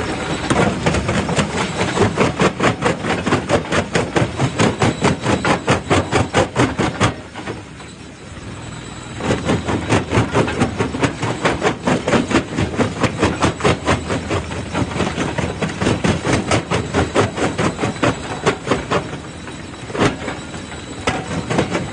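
Jaw crusher crushing rock: a fast, even clatter of about three to four knocks a second, easing off briefly about seven seconds in and again near the end.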